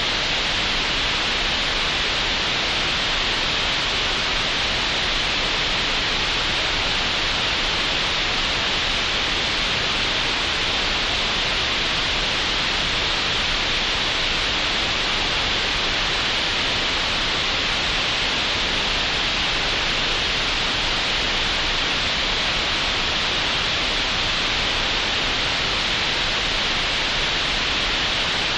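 Computer-generated green noise: a steady, even hiss that holds at one level with no change or events.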